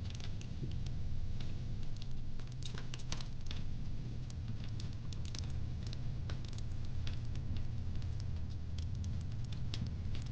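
Wood fire in a fire pit crackling: frequent small, irregular pops and snaps over a low, steady rumble.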